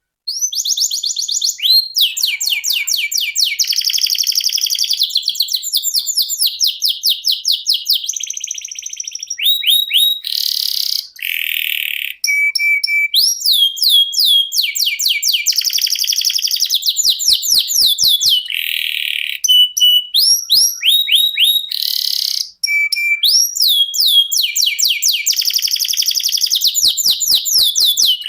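Domestic canary singing one long, almost unbroken song of fast trills. The song is made of rapid runs of repeated downward-sweeping notes, buzzy rolls and short steady whistled notes, changing phrase every second or two.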